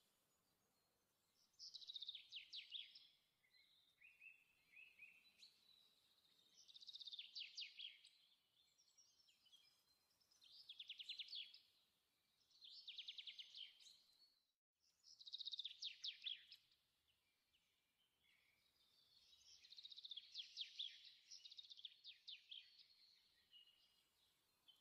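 Faint songbird singing: short, quick trilled phrases of high chirps, repeated every few seconds, with a brief drop-out about halfway through.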